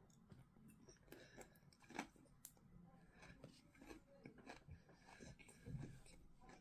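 Faint chewing and crunching of a mouthful of lettuce, cucumber and boiled egg, with scattered small clicks.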